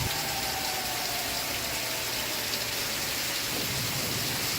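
Steady rain, an even hiss of falling rain. A faint falling tone fades out in the first two seconds.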